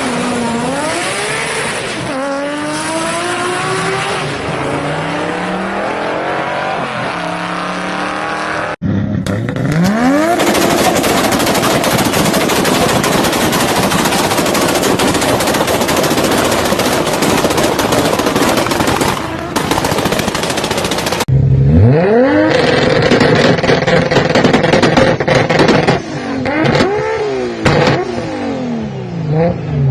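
Turbocharged Toyota Supra engine and exhaust at high revs, in three short clips. The engine note climbs repeatedly and drops back as the car pulls through the gears or is revved, and in the loud middle clip a dense crackle from the exhaust runs over the engine.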